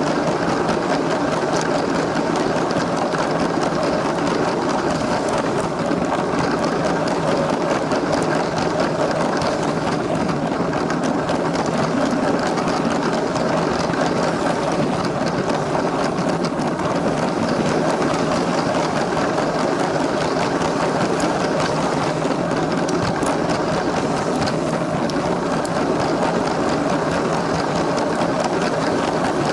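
LEGO train's small electric motor whirring steadily as its plastic wheels roll along the track.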